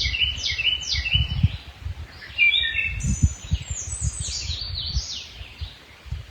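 Wild songbirds singing, a run of quick repeated down-slurred whistled phrases, with a low rumble underneath.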